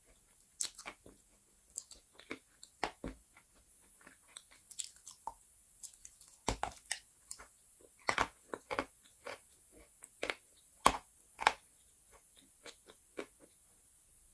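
Chalk crunching and crumbling in short, irregular crackles, with a few louder crunches near the middle and later on.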